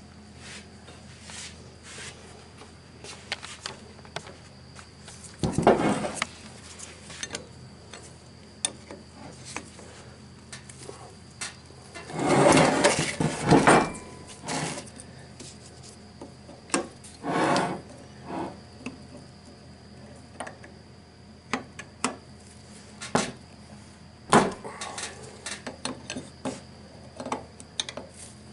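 Metal hand tools clinking and clattering against metal parts: sockets and wrenches handled while bolts are backed out of a starter motor. The knocks come irregularly, with a longer rattle near the middle.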